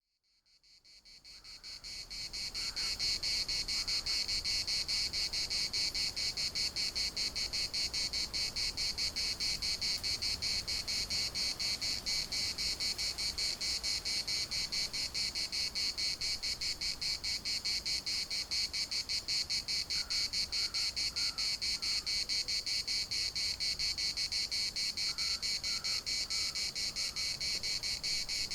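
Cicadas singing in chorus: a dense, rapidly pulsing high buzz that fades in over the first few seconds and then holds steady.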